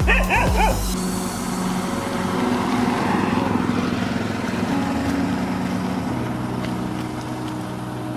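A dog yipping and whimpering in a few quick high calls about the first second, over a beat that stops soon after; then a steady drone with held tones.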